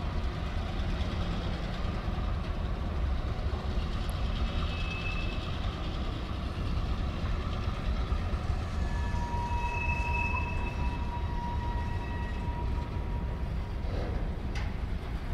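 Empty covered hopper cars of a freight train rolling past with a steady low rumble of steel wheels on rail. A thin high whine comes and goes, strongest about two-thirds of the way through.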